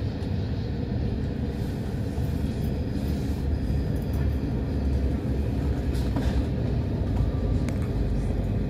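A train running along the track: a steady low rumble, with a few faint clicks about six seconds in.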